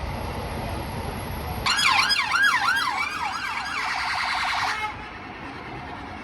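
Emergency vehicle siren in a fast yelp, about three rises and falls a second, starting about a second and a half in, then holding a steadier tone and cutting off abruptly about five seconds in. Low traffic rumble runs under it before it starts.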